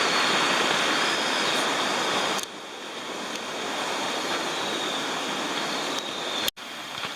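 Running water rushing steadily, louder for the first two and a half seconds, then quieter after an abrupt cut; a brief dropout near the end.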